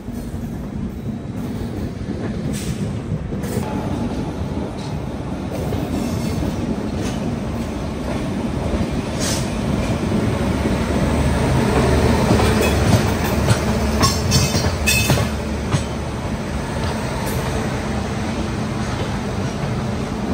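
Humsafar Express passenger train running on the rails, heard from the open side of the coach: a steady rumble of wheels on track. It grows louder about halfway, with a run of sharp clicks as the wheels cross points.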